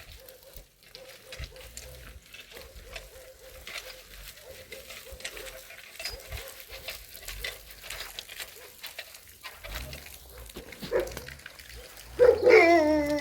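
Faint rustling and small knocks, then near the end a dog gives a loud, drawn-out whining bark that bends down in pitch.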